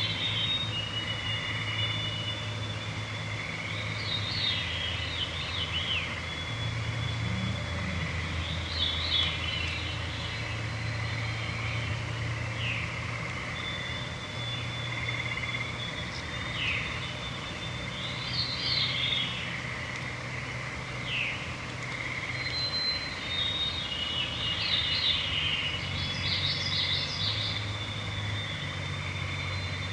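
Evening forest chorus of songbirds singing short phrases every few seconds, with long thin whistled notes between them. Under them runs a steady high trilling of frogs and toads and a low droning hum.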